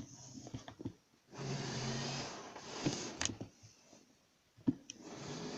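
Small clicks and knocks from handling model railway stock, with a model train running on the track in two spells: a steady hiss and low hum starting about a second in and again near the end.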